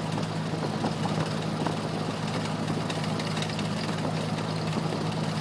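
Cessna 172F's six-cylinder Continental O-300 engine and propeller running steadily at low taxi power, heard inside the cockpit as a constant low drone.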